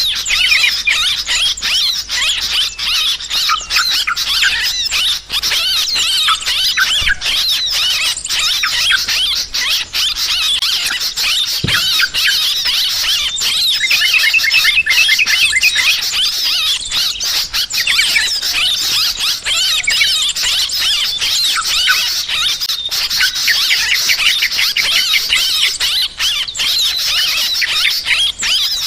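Yellow-vented bulbuls (trucukan) chattering noisily, many quick squealing calls overlapping without a break in a dense, agitated chorus. It is the kind of excited flock racket that is played as a lure to draw birds in for trapping.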